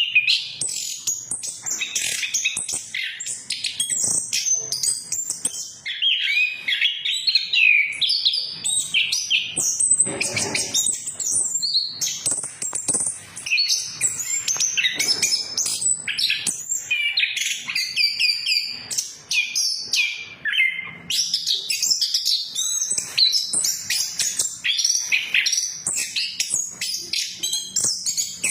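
Chestnut-capped thrush (anis kembang) singing without pause: a fast, varied stream of high chirps, twitters and short whistles, a male in full song.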